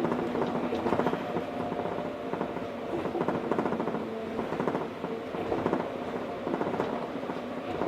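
Osaka Monorail 1000-series train running at speed, heard from inside the car: a continuous rumble from its rubber tyres on the concrete guideway, with a steady motor hum and irregular swells in loudness.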